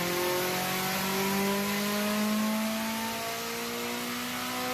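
Car engine running under load, its revs climbing slowly over the first couple of seconds and then holding steady at a high pitch.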